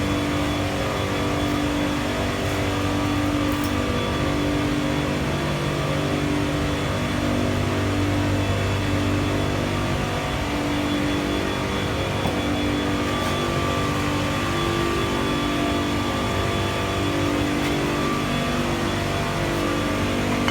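Plant-room machinery running steadily: a constant hum with several steady tones that slowly swell and fade.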